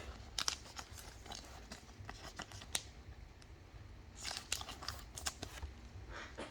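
Trading cards being handled: scattered soft clicks and rustles as cards are slid and flipped, with a short burst of rustling about four seconds in.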